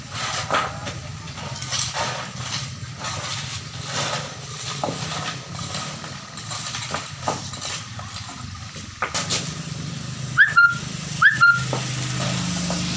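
An engine running steadily, under a scatter of knocks, clinks and scrapes. Near the end come two short chirps in quick succession, each rising and then holding on one note.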